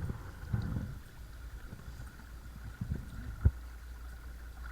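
Small electric trolling motor (Watersnake T24, 12 V) running on a kayak, with a thin steady whine over a low muffled rumble of water and hull. A few soft bumps come early on, and one sharp knock about three and a half seconds in.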